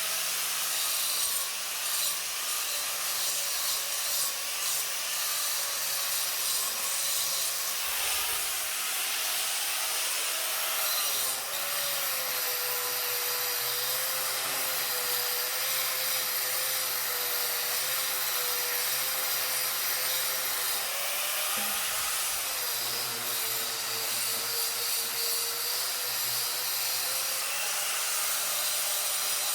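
A power tool running continuously, with a gritty grinding or cutting noise and a motor pitch that wavers and sags slightly at times.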